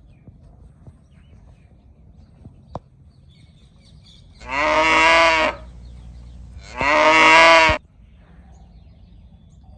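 A cow mooing twice, with two loud calls about a second long each, a second or so apart.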